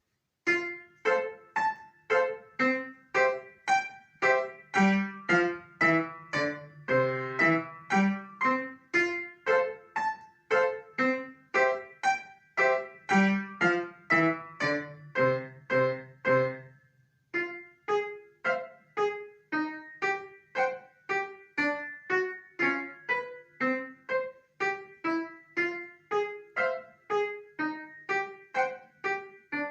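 A child plays the piano: a lively piece with strong, evenly spaced notes begins about half a second in. It pauses briefly about halfway through, then carries on.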